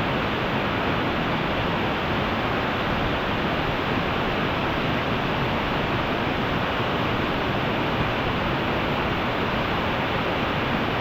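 Waterfall pouring down with a steady, even rush of falling water.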